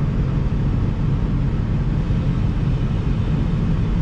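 Diesel engine of harvest machinery running steadily under load, a low, even hum.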